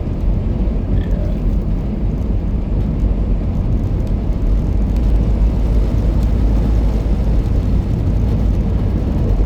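Steady low drone of a truck's diesel engine and tyres, heard from inside the cab while driving on a snow-covered highway.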